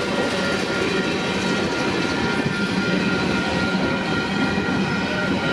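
CPKC mixed freight train's cars rolling past at trackside: a steady rumble of wheels on rail with several thin, steady high-pitched tones running over it.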